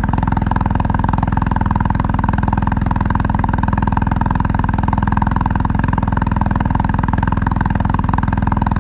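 BMW R1250GS Adventure's boxer-twin engine running steadily through an Austin Racing aluminium exhaust with its dB killer fitted, a fairly tame, even exhaust note.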